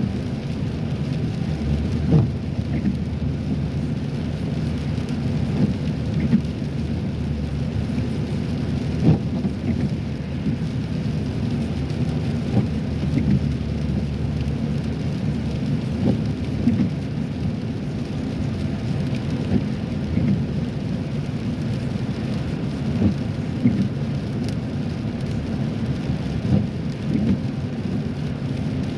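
Car cabin noise while driving on a rain-wet road: a steady low rumble of tyres and road, with rain on the car and brief sharp taps every second or two.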